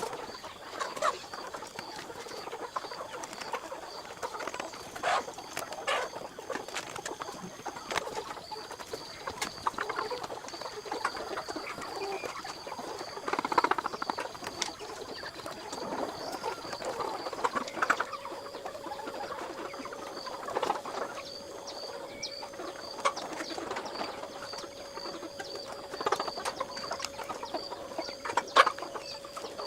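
Chickens clucking at irregular moments, with a few short knocks, over a steady high-pitched pulsing tone. A steady hum joins about two thirds of the way through.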